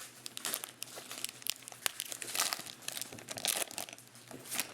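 Trading card packs and cards being handled: irregular crinkling of pack wrappers with scattered sharp clicks and rustles.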